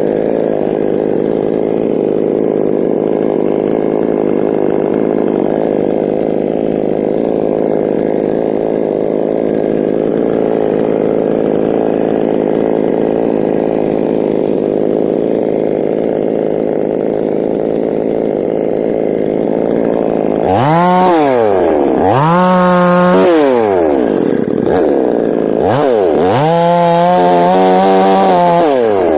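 Chainsaw engine running steadily, then revved up and let back down three times in the last nine seconds, the last rev held high for a couple of seconds.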